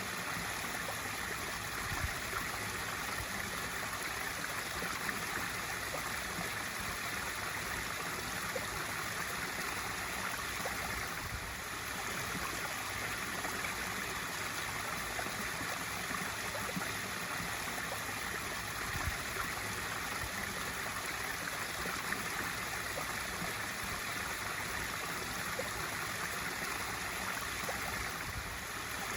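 Pool waterfall feature running, a steady splash of water pouring into the pool with light gurgling.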